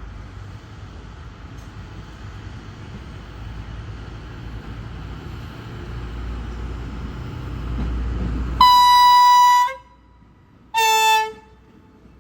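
A train rumbling as it approaches, growing louder, then its horn sounds twice: one blast of about a second, then a shorter one.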